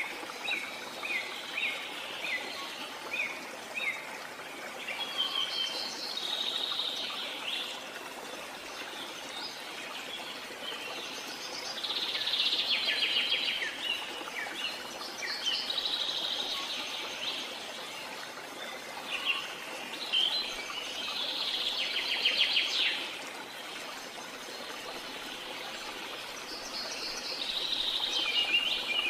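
Songbirds chirping and singing: short repeated chirps at first, then several rapid trills of a few seconds each, over a steady background hiss.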